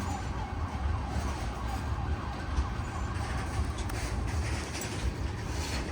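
Long freight train rolling slowly past, a steady low rumble with a faint wavering whine above it. The train is slowing to a stop.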